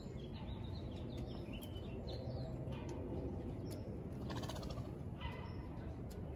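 Birds chirping and calling in short bursts, with a brighter, buzzier call about four and a half seconds in, over a steady low background hum.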